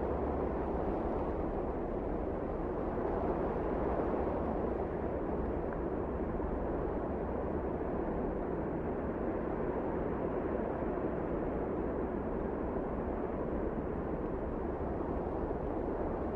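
Blizzard wind blowing steadily, a deep, even rush with no gusts standing out.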